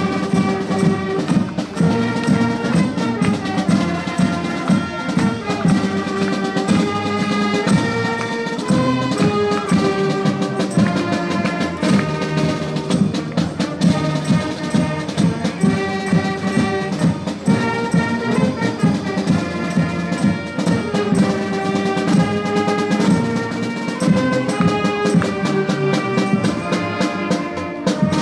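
Brass band playing a tune with trumpets and trombones over a steady drum beat.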